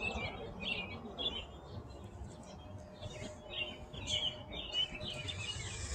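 Small birds chirping in short, repeated calls, with a pause about midway, over a faint low background rumble.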